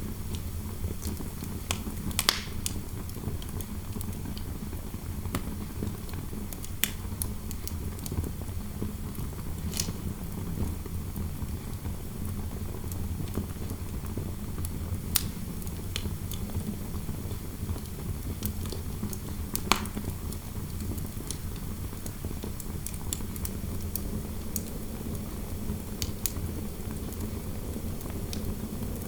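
Wood fire in a fireplace crackling, with sharp pops every few seconds over a steady low rumble of wind noise.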